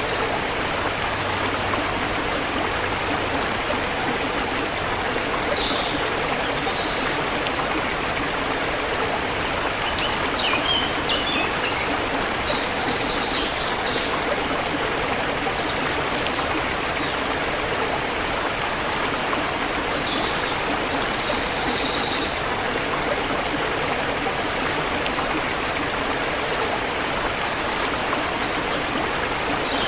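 Forest river water flowing steadily. Short bird chirps come through above it a few times.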